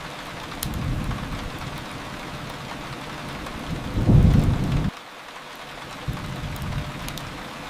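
Steady rain with low rolling thunder rumbles; the loudest rumble swells about four seconds in and cuts off suddenly just before five seconds. A few faint sharp crackles from the fireplace sound over the rain.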